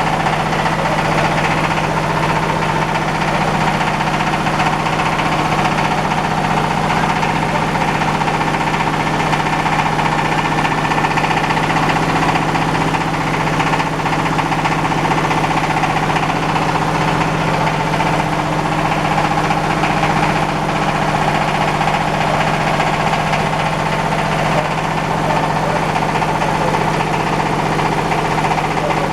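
Diesel-engine-driven rice husker running steadily: a continuous engine drone with the machine's mechanical noise, unchanging throughout.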